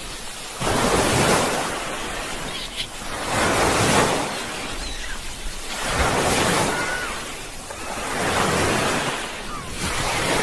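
Sea waves breaking and washing on the shore, the surf swelling and falling back about every two to three seconds.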